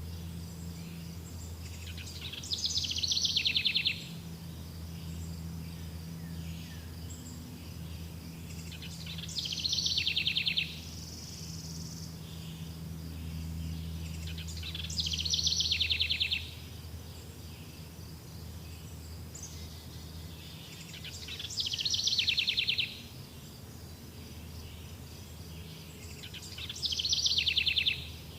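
A songbird repeating the same short song phrase five times, about every six seconds, each phrase ending in a fast trill. Behind it runs a steady, pulsing high-pitched insect drone.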